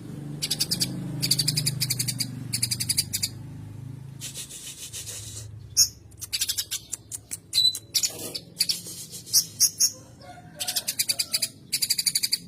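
Cucak cungkok songbird song mixed with fighting sparrow chatter: repeated bursts of rapid, rattling high notes, each about a second long, with short gaps between.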